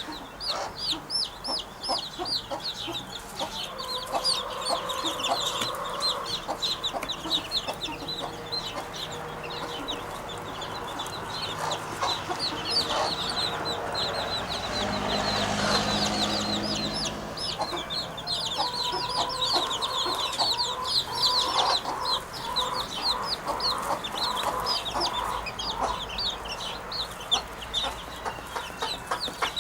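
Birds calling: rapid runs of short, high chirps repeat throughout, with lower calls coming and going, a sound that resembles chickens clucking.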